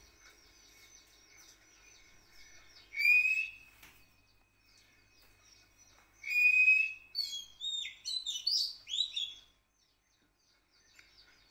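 Songbirds singing: two loud, drawn-out whistled notes a few seconds apart, then a quick run of warbling chirps, over faint chirping in the background.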